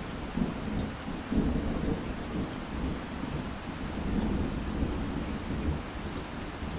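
Rolling thunder over steady rain. A low rumble sets in right at the start and keeps swelling and easing, loudest about a second and a half in, over the even hiss of falling rain.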